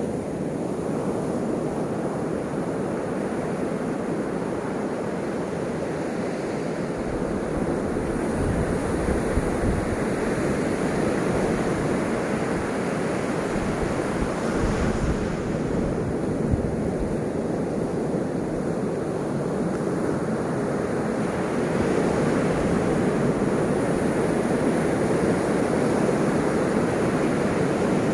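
Ocean surf: waves continuously breaking and washing in, swelling and easing, a little louder in the last few seconds.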